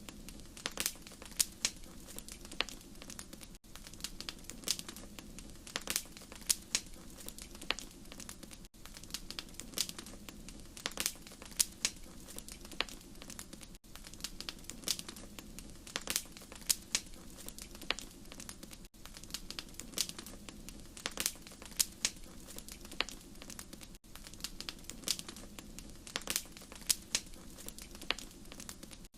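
Wood fire crackling in a fireplace: irregular sharp pops and snaps over a low steady rumble, with a brief dip about every five seconds where the recording loops.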